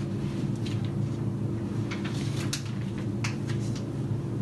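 Steady low hum of room background noise, with a few brief clicks scattered through it.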